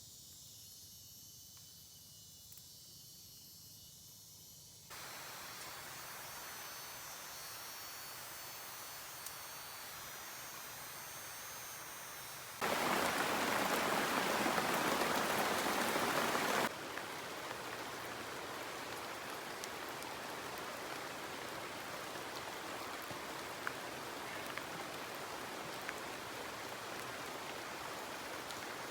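Rain falling in the forest, a steady hiss that starts abruptly about five seconds in over a few seconds of crickets chirping. It gets much louder for about four seconds in the middle, then settles back to a steady downpour.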